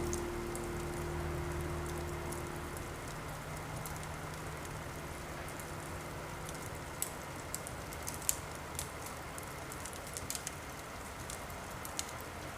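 Steady rain with a fireplace crackling: sharp pops come now and then, more often in the second half. A low held music tone fades out over the first few seconds.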